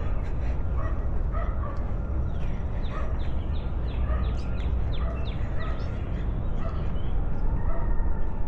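Birds calling, with short repeated chirps and, from about two seconds in, a quick run of about ten notes that each drop in pitch. Wind rumbles on the microphone underneath.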